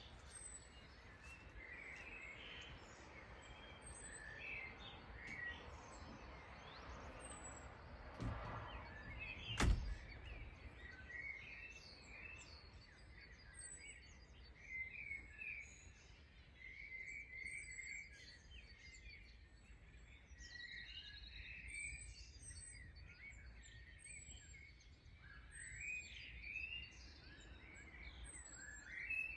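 Several songbirds chirping, with a thin high falling note repeated every second or two over a steady low background rumble. A single sharp knock about a third of the way through is the loudest sound.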